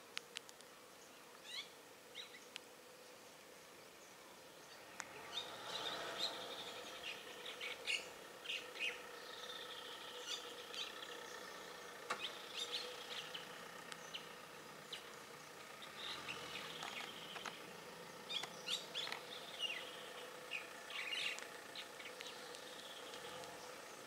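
Forest birds chirping and calling: many short chirps and falling whistles, busier from about five seconds in, over a faint steady low hum.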